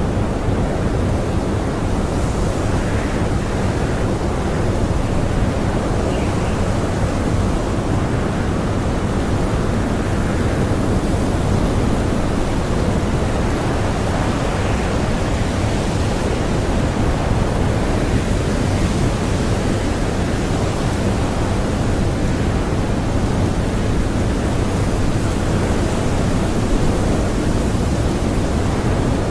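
Steady blizzard wind: a dense, even rushing noise, heaviest in the low end, with no gusts or breaks standing out.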